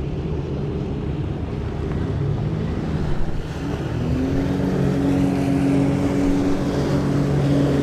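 Jet ski engine running on open water. About halfway through it speeds up and settles into a steady, louder drone.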